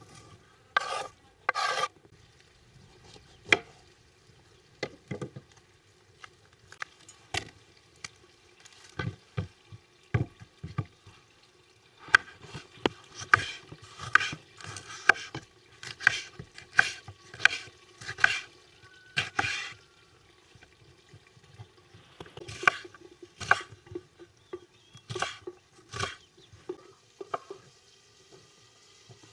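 Food being stirred in a cooking pot: clusters of quick scraping strokes, about two a second, broken by pauses, with a few dull knocks.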